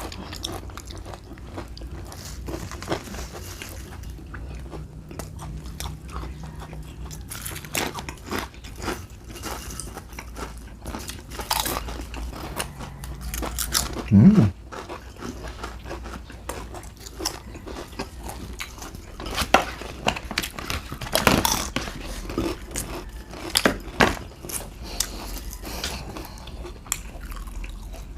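Close-miked eating sounds: irregular biting, chewing and crunching with wet clicks and smacks. A short low hum of a voice about halfway through.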